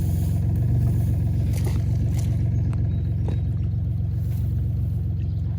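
A motor vehicle engine idling steadily with a low, even rumble, with a few faint light clicks over it.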